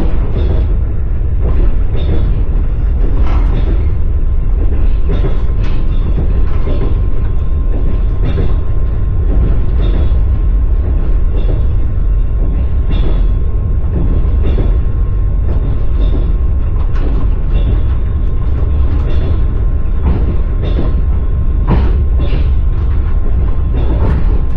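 Passenger train carriage's wheels clattering over the rail joints, heard from inside the carriage: a steady low rumble broken by sharp, irregular clacks.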